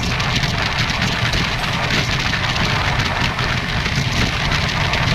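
Amrit Bharat Express passenger train running, heard from on board: a steady low rumble of the wheels and running gear with a constant fast rattle and hiss over it.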